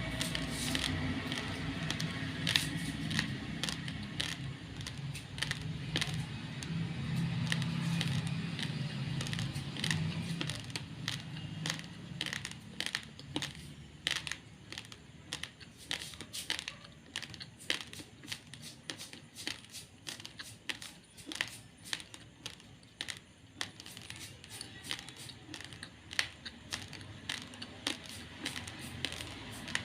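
Raw, uncooked basmati rice grains being chewed close to the microphone: irregular crisp crunching clicks, coming thick and fast in the second half, over a low hum during the first part.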